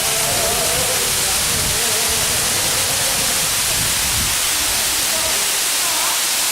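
Steady, loud rush of a waterfall, with faint voices in the background near the start and near the end.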